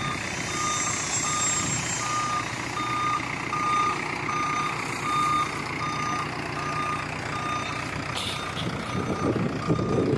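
Reversing alarm of a Preet Hornett backhoe loader beeping steadily, about two beeps a second, over its diesel engine running; the machine is backing up.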